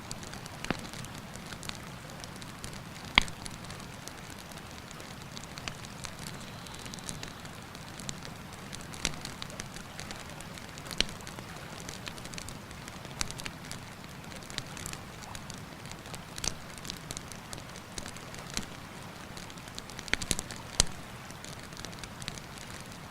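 Wood campfire crackling, with scattered sharp pops at irregular intervals, the loudest about three seconds in and a quick cluster near the end, over the steady rush of a mountain river.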